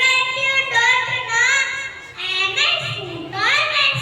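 Young, high-pitched voices singing a melodic song in phrases, with a short break about halfway through.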